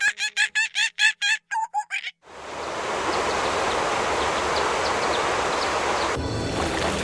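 A bird gives a rapid series of harsh clucking calls, about four a second, which stops abruptly about two seconds in. A steady rush of water then takes over, with faint high bird chirps in it.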